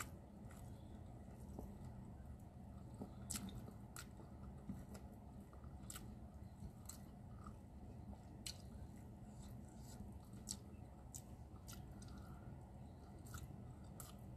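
Faint close-up eating sounds: a person chewing a mouthful of rice and salted fish, with scattered soft clicks and smacks at irregular intervals over a low steady room hum.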